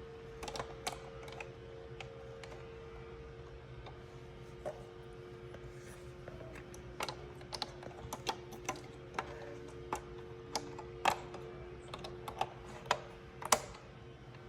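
Plastic LEGO Duplo bricks clicking and knocking as they are handled, in irregular sharp clicks that come more often in the second half, over a faint steady hum.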